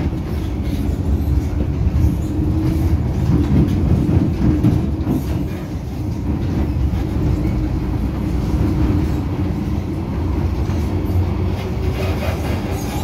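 MTR Island Line M-Train running on the track with a steady low rumble and a humming tone. A higher steady whine or squeal joins near the end.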